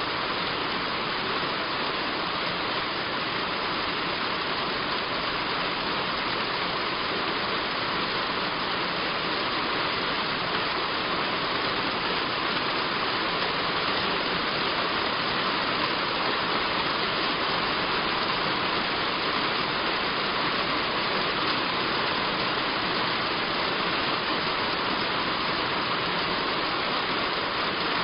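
Heavy rain falling steadily on a roof, an even hiss with no breaks or changes.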